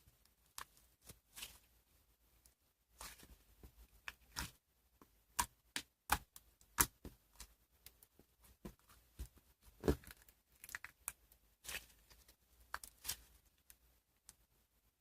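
Slime being squeezed, stretched and pressed by hand, giving irregular sharp clicks, pops and short crackles.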